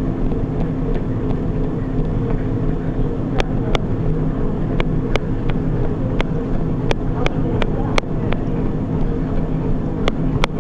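Treadmill running with a steady motor hum, and a runner's footfalls landing on the belt as sharp clicks about three a second from about three seconds in.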